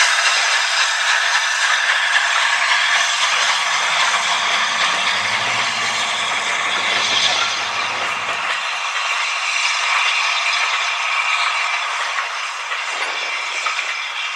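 A train running along the track: a steady rush of wheel and rail noise. A low hum joins it in the middle and cuts off a little before nine seconds in.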